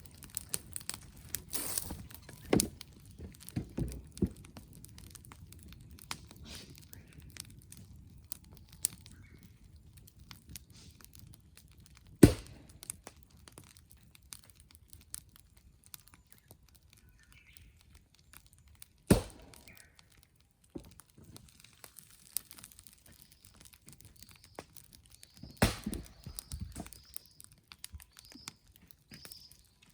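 Wood campfire crackling, with many small snaps and a few sharp loud pops, the loudest about twelve and nineteen seconds in. Faint bird chirps come in near the end.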